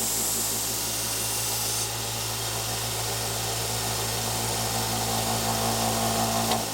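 Wilton belt sander running steadily with a 240-grit belt as a steel knife blade is ground against it, giving an even grinding hiss over the motor hum; the hiss eases about two seconds in. The sander is shut off near the end.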